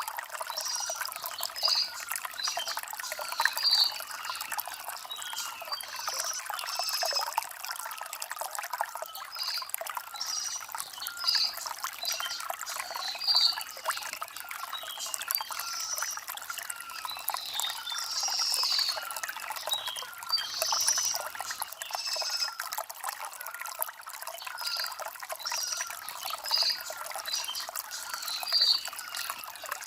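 Shallow stream water trickling and splashing over stones, a steady light rush with little bass. Birds chirp over it in short high calls every second or two.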